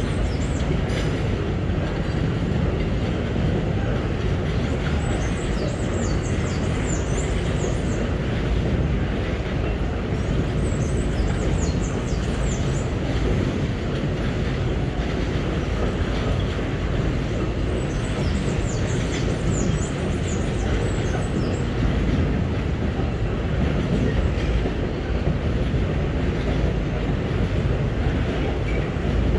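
Empty GDT ore wagons of a long freight train rolling past with a steady heavy rumble, and high wheel squeals coming and going several times.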